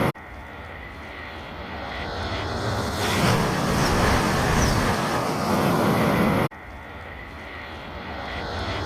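E8-series Yamagata Shinkansen train passing through a station at speed: a rushing noise that swells over a few seconds to a steady loud rush. It cuts off sharply about six and a half seconds in, and the same build-up starts over.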